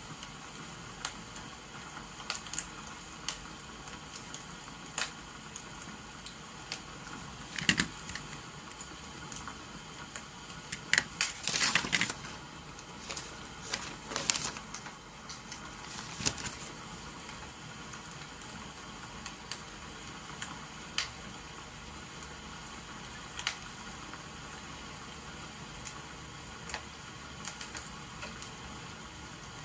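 Steady hiss of rain and a crackling wood fire, with scattered sharp crackles. The crackles cluster about halfway through.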